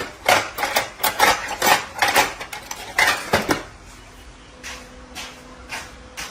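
Metal pieces clinking and clattering against each other: a quick run of sharp knocks for about three and a half seconds, then a few scattered clinks.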